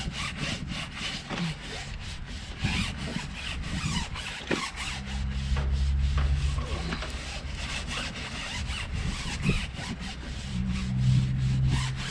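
Wash mitt scrubbing a truck tyre's rubber with Jif cream cleaner in quick repeated rubbing strokes. A low hum comes in twice, about five seconds in and again near the end.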